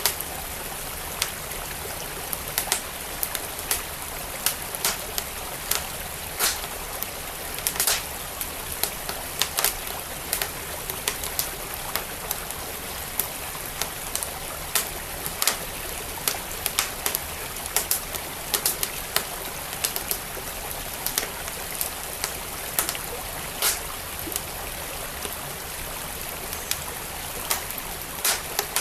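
Wood fire crackling in a fireplace, with irregular sharp pops a few times a second, over the steady rush of a flowing stream.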